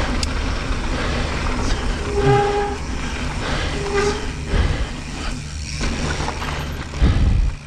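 A horn sounds twice, a half-second blast and then a shorter one, over the steady wind and tyre rush of a mountain bike rolling down a dirt trail. A low thump comes near the end.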